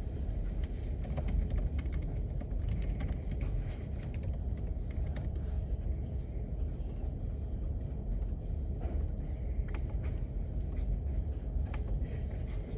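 Irregular keyboard typing, quick clicks of keys, over a steady low hum of room ventilation.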